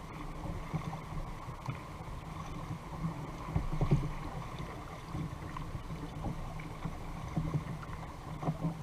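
Water lapping and slapping against a fishing kayak's hull, with small irregular knocks and a faint steady hum underneath; one knock about four seconds in is a little louder.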